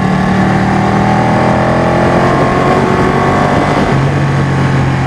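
Ducati Panigale superbike engine running at a steady pace over a continuous rushing noise, its note shifting a little about four seconds in.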